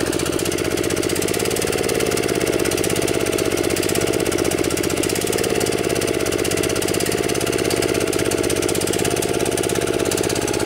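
Kawasaki FC150V single-cylinder OHV engine running steadily at low speed, unable to rev up. It is starving for gas, which the mechanic puts down to a plugged main jet in the gummed-up carburetor.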